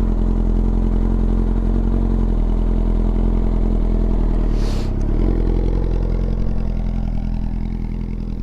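Yamaha R6 inline-four sport bike engine running steadily at low revs just after starting, with a short rush of noise about five seconds in and the sound slowly fading near the end.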